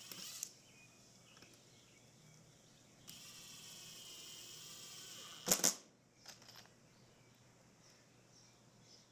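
A click, then a steady mechanical whine for about two and a half seconds that ends in a sharp, loud knock, followed by a few faint clicks.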